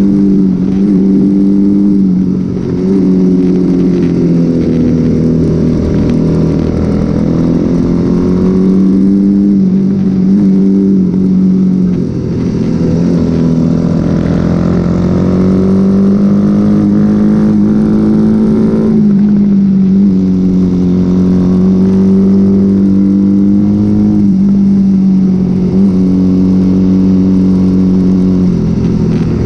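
Honda XL motorcycle engine at race pace, running hard and steady, its pitch climbing slowly for several seconds and dropping sharply a few times as gears are shifted.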